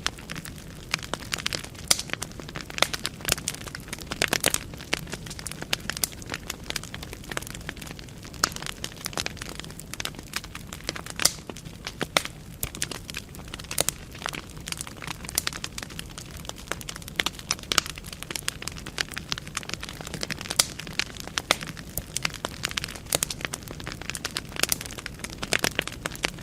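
Wood fire burning in a fireplace: logs crackling and popping with frequent sharp, irregular snaps over a steady low rumble of flame.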